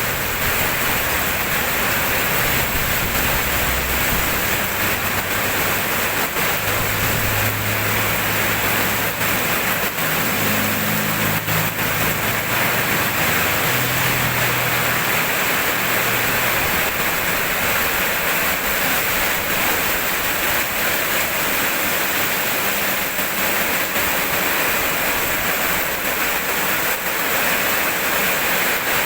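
Steady heavy rainfall, an even hiss of falling rain, with a low rumble swelling in from about a fifth of the way in and fading out around the middle.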